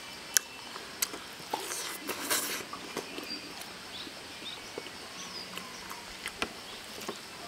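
Close-up eating sounds: chewing and lip-smacking on braised chicken while it is torn apart by hand, a string of short wet clicks and smacks with a brief louder rustle about two seconds in.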